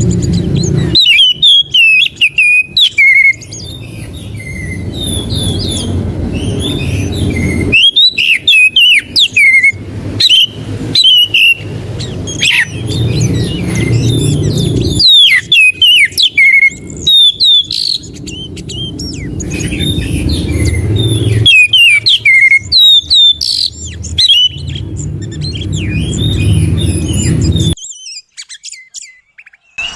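Oriental magpie-robin (kacer) singing: fast, varied phrases of sharp chirps and whistles, repeated over and over. Under the song a low rumble swells and breaks off abruptly every several seconds.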